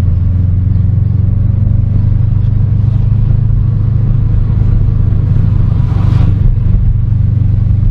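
Car engine and drivetrain running at a steady pace, a loud, even low drone with no revving.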